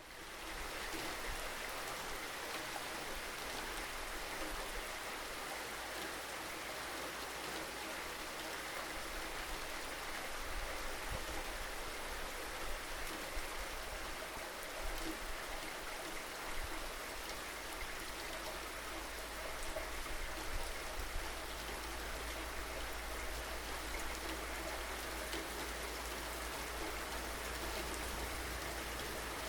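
Steady rainfall with scattered drops ticking, over a low rumble. It fades up out of silence at the very start.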